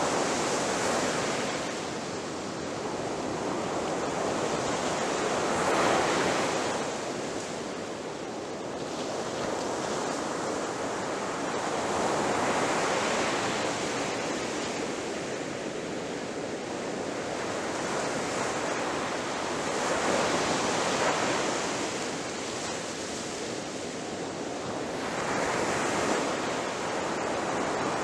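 Ocean waves breaking on a beach: the surf swells and washes back in slow surges, about five in all, roughly every six seconds.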